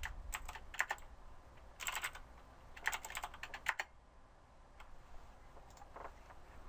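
Computer keyboard typing in quick runs of keystrokes, thinning to a few scattered keystrokes after about four seconds.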